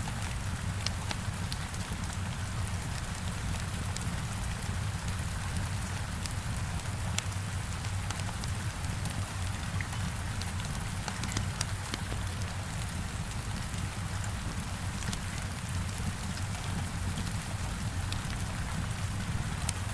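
Heavy rain beating steadily against a window, a constant wash of noise with a low rumble underneath, scattered with small sharp clicks.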